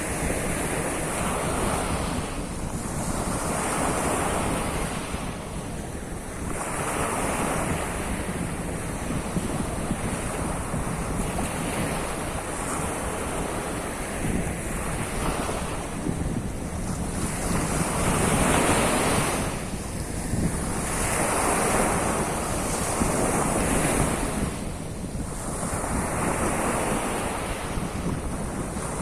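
Sea of Azov waves breaking and washing on the shore, the surf swelling and falling back about every three to four seconds, with wind buffeting the microphone.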